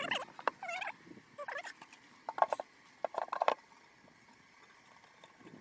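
Wooden beehive brood box and frames being handled and set onto the hive: a run of knocks and clicks with short squeaks of wood rubbing on wood. It stops about three and a half seconds in.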